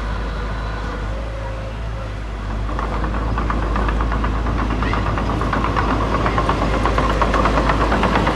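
Heavy diesel earthmoving machinery running with a steady low rumble. About two and a half seconds in, a rapid, even clattering rises and grows louder over it.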